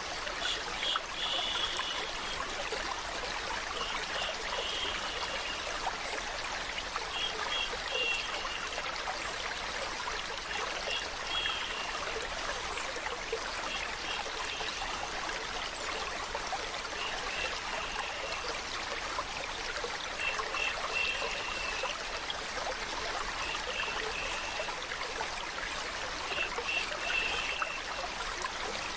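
Running water trickling and splashing steadily, like a small stream. Short high-pitched chirping sounds recur every two to three seconds over it.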